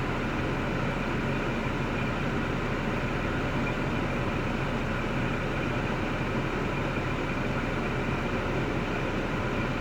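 2005 Cadillac STS's 3.6L LY7 V6 running at a steady idle, an even mechanical drone with no change in speed.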